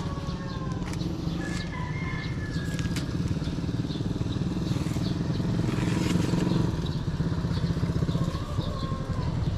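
A small engine running steadily with a fast low pulsing rumble, and a few faint high whistles and clicks over it.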